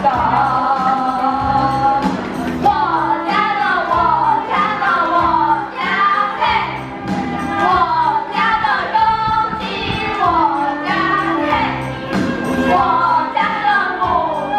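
A Hakka children's song sung by a group of voices together, over an instrumental backing with a steady beat.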